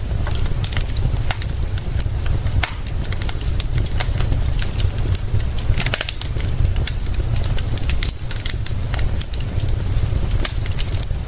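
Wood fire crackling with frequent sharp pops and snaps, over a steady hiss of rain and a constant low rumble.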